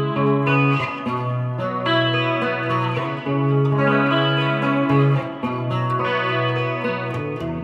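Electric guitar, a Fender Stratocaster, played through a Fender Mustang GTX100 modelling amp preset with effects: ringing chords and held notes that change about once a second.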